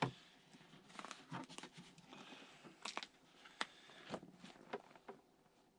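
Handling noise: a sharp click at the start, then scattered taps, knocks and crackles.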